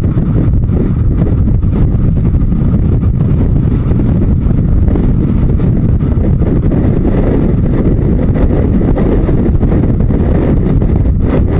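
Steady wind rush over the microphone with the low running noise of a Yamaha Diversion 900 motorcycle at road speed.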